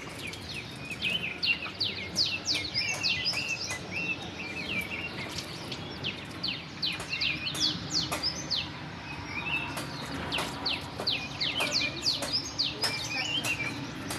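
Birds chirping continuously: many short, sharply falling high notes, several a second, over a faint steady background hum.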